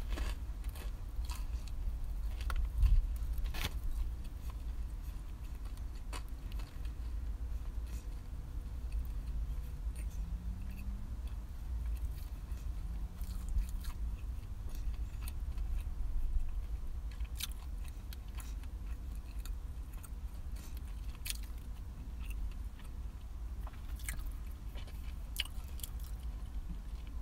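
Chewing and biting into a toasted ham and cheese sandwich, with scattered crisp crunches and mouth clicks, over a steady low rumble.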